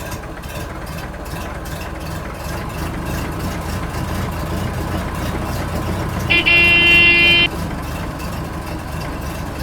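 A vehicle engine runs steadily with a fast, even chug. About six seconds in, a horn sounds once for about a second.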